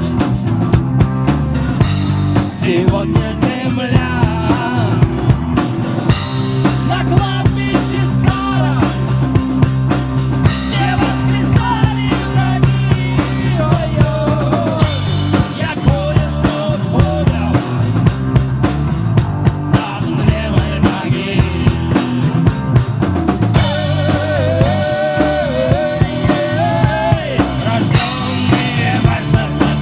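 Live rock band playing an instrumental passage: a drum kit keeps a steady beat under bass and guitar lines.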